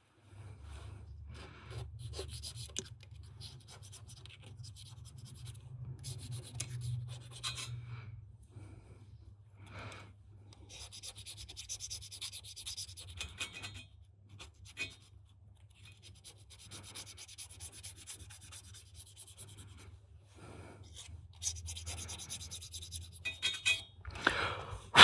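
Hand work on car parts: rubbing and scraping in two longer stretches, with scattered light clicks and knocks, over a steady low hum.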